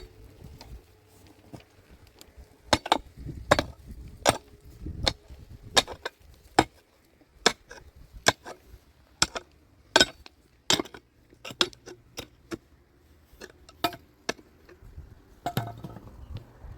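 A hand tool striking hard material over and over in a steady rhythm, a sharp knock a little more than once a second, starting about three seconds in and stopping shortly before the end.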